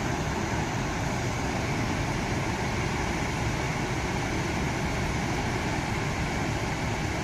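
Chitrakoot Falls on the Indravati River, a broad waterfall, making a steady, unbroken rush of falling water.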